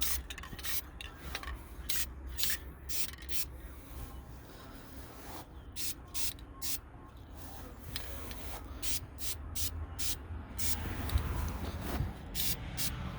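Aerosol spray-paint can sprayed in many short hissing bursts, roughly two a second with brief pauses, laying down a first coat of flat black paint.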